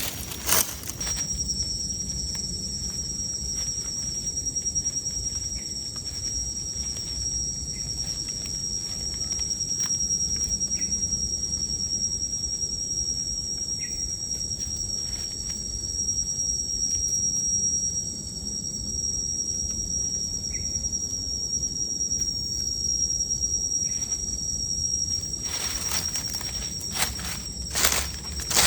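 Forest insects droning in one steady, high-pitched whine, over a low background rumble. A few crunching steps or handling noises come near the start and again near the end.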